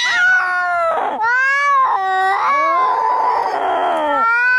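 Angry cats caterwauling in a fight: long drawn-out yowls that rise and fall in pitch, with a harsher, noisier screech about three seconds in.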